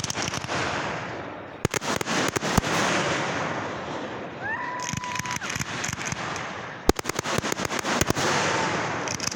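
Fireworks going off: sharp bangs and clusters of rapid crackling over a continuous hiss, with a short rising whistle about halfway through.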